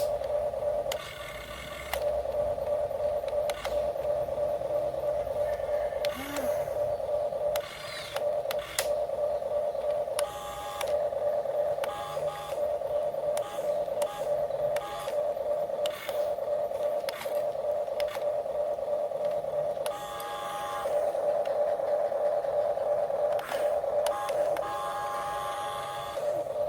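Small electric motors of radio-controlled construction models whining steadily at one pitch, cutting out briefly a few times and starting again.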